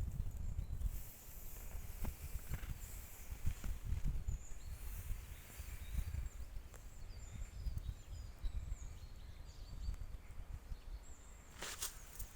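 Small forest birds chirping in short high calls over a steady low rumble of wind on the microphone. Near the end come a couple of sharp crunching sounds.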